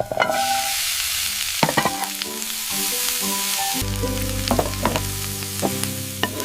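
A steady high hiss, like a sizzle or spray sound effect, over light background music; a low bass line comes in a little past halfway.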